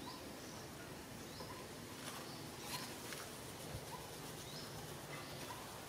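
Faint outdoor ambience with a small bird giving short, high, rising chirps every second or two over a steady hiss, with a few soft clicks.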